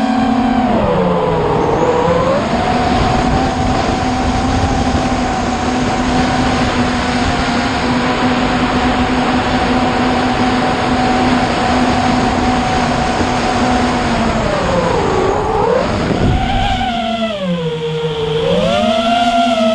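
A motor drones steadily over a rushing noise. Its pitch sags briefly about a second in and again near 15 seconds, then wavers up and down near the end.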